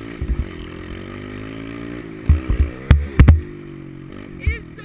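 Small pit bike engine running, its note dipping and rising. Several heavy low thumps come over it, the loudest in a cluster around the middle.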